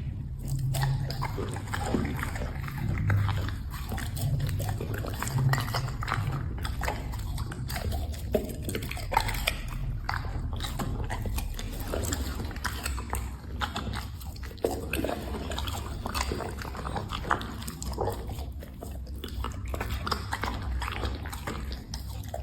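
A dog eating: irregular chewing, crunching and lip-smacking clicks, over a steady low hum.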